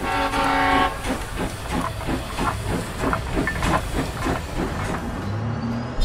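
Train sound effect: a train whistle blows once for about a second, then rhythmic chugging and clacking goes on at about four strokes a second.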